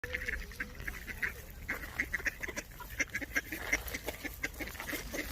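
A group of ducks calling: many short quacks, several a second, overlapping.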